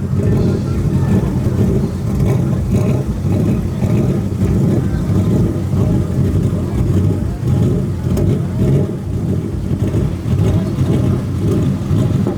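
Vehicle engine revving hard and continuously, loud and uneven in level, typical of a truck doing a burnout.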